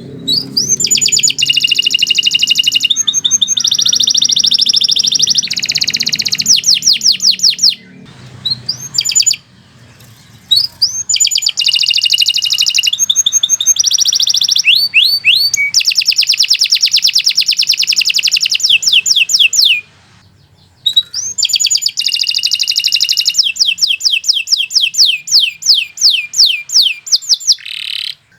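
Domestic canary singing long, fast trills and rolling phrases of rapidly repeated high notes, in long stretches broken by two short pauses, about eight and twenty seconds in.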